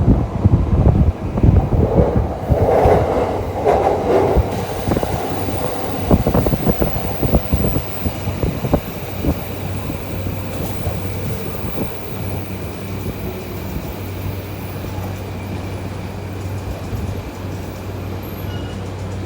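Shinkansen train, the Doctor Yellow track-inspection train, passing close by with a rapid clatter of wheels over the rails, then fading to a steady rumble as it moves away.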